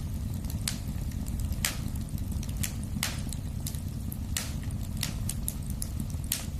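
Wood fire burning in a fireplace: a steady low rumble with irregular sharp crackles and pops, the louder ones about one or two a second and fainter ticks between.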